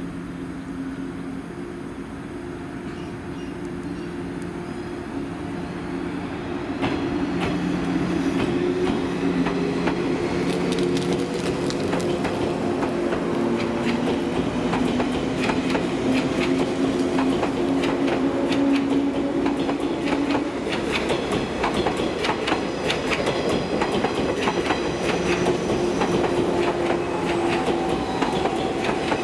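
JR 185-series ten-car electric train pulling away and running past. A steady hum gets louder about seven seconds in, and a hum rises in pitch as the train gathers speed, with wheels clicking over rail joints as the cars go by.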